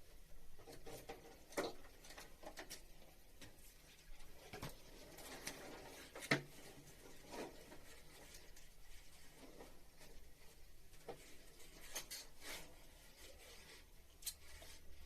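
Faint, scattered clicks, taps and rubbing from hands working on air-conditioner piping, with one sharper knock about six seconds in.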